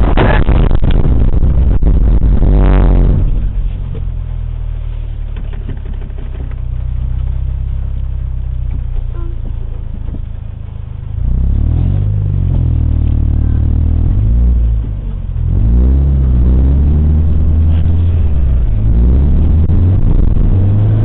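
Car on the move: a loud rushing noise for the first few seconds gives way to a steady low engine hum. About eleven seconds in, the engine note climbs as it accelerates, drops briefly, then climbs again.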